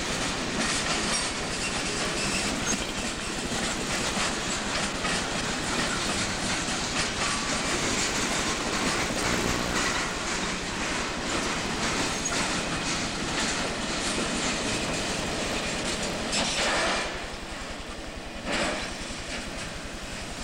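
Freight cars of a CSX freight train rolling past, their wheels clicking over the rail joints in a steady run of knocks. The sound drops away sharply near the end, with one brief loud burst after the drop.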